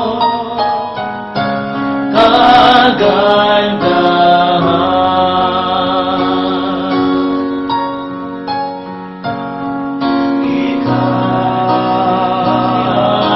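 A slow worship song played on keyboard, with a singer holding long, drawn-out notes over the chords.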